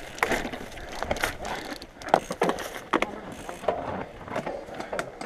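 Mountain bike rattling over rough singletrack: irregular knocks and clicks from the bike as it rolls over rocks and roots.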